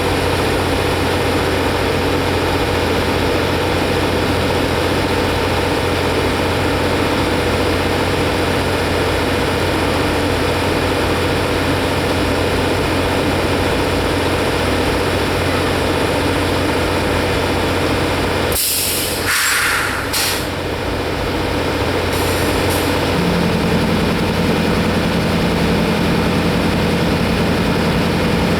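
Diesel locomotive idling steadily. About two-thirds of the way in, air hisses in a few short bursts, and soon after a low steady hum joins the engine sound.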